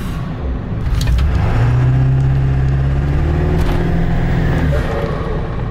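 7.3 L Powerstroke turbo-diesel V8 with the exhaust tip off, heard from inside the cab with the windows up as the truck pulls. The engine note climbs steadily, then drops near the end. It is a lot higher pitched than with the tip on.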